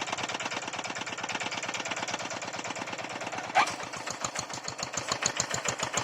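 Hand tractor engine running under load with a fast, even chugging beat. About three and a half seconds in there is a sharp clank, after which the beat slows slightly and a light rhythmic clatter joins it.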